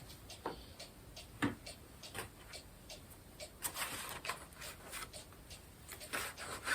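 Faint scattered clicks and brief light rustling of small objects being handled.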